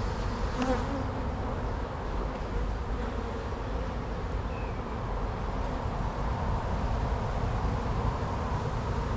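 Swarm of honeybees buzzing around an opened hive: a steady, dense hum of many bees in flight, with a low rumble underneath.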